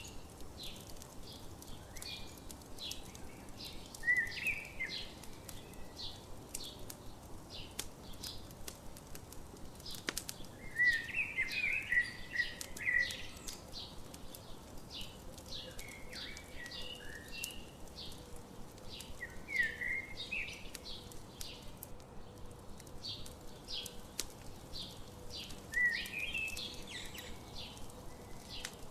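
Campfire crackling with frequent small pops, while a songbird sings short warbling phrases every few seconds.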